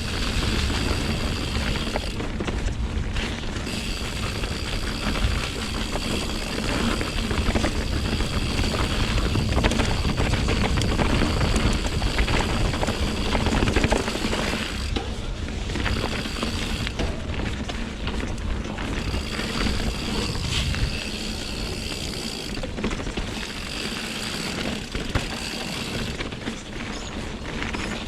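Mountain bike being ridden along singletrack: tyres rolling and the bike rattling over the ground, with a heavy low rumble of wind on the microphone.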